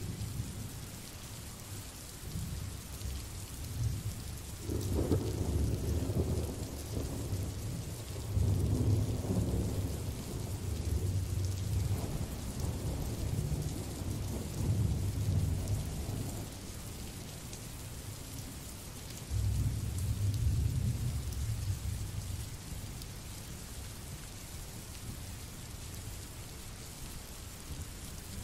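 Recorded rain sound effect: steady rain hiss, with low rolls of thunder swelling and fading several times.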